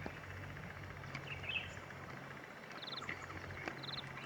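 Outdoor wildlife ambience: short, high-pitched chirping trills repeat about twice a second from around the middle, over a low steady hum.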